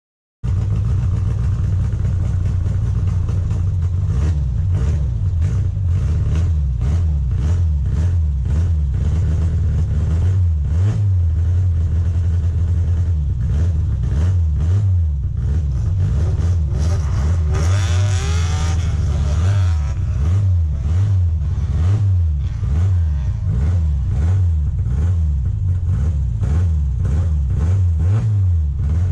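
Triumph Spitfire's four-cylinder engine driven hard on an autocross course, its revs rising and falling with throttle and shifts. The engine cuts in just after the start, and a brief higher squeal comes about eighteen seconds in.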